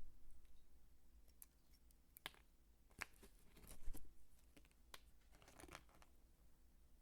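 Dry soap peelings crumbling and crunching in short, scattered crackles, the loudest about three and four seconds in, over a faint low rumble.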